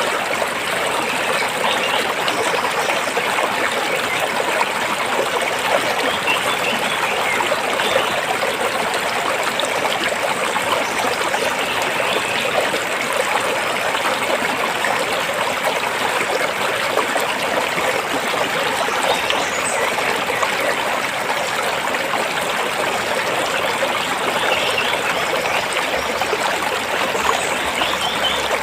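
A rocky stream flowing, a steady even rush of water with trickling over the stones.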